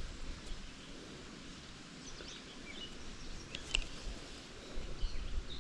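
Outdoor ambience: small birds chirping now and then over a steady hiss, with one sharp click a little before four seconds in.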